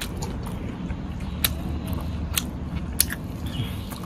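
A person chewing and biting grilled pork ribs close to the microphone, with a few sharp mouth clicks over a steady low rumble.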